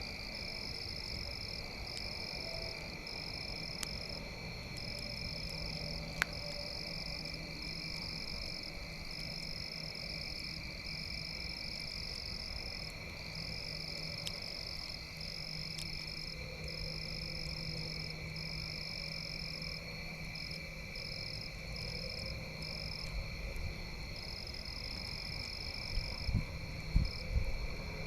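Night chorus of frogs and insects: a steady high-pitched trilling, the highest part cutting in and out every second or two. There is one sharp pop about six seconds in, and a few low thumps near the end.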